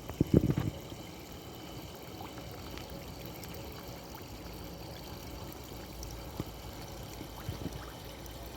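Steady running or pouring water, with a few low knocks about half a second in.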